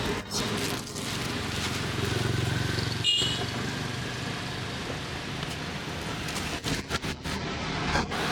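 Street traffic: motorbikes and cars running past in a steady rumble. A brief high-pitched ring sounds about three seconds in.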